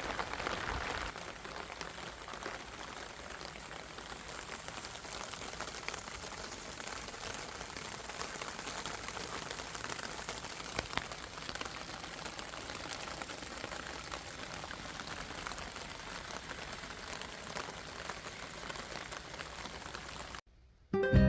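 Steady rain falling, with scattered individual drops ticking out of the hiss and a couple of sharper drop clicks about halfway through. It cuts off suddenly shortly before the end.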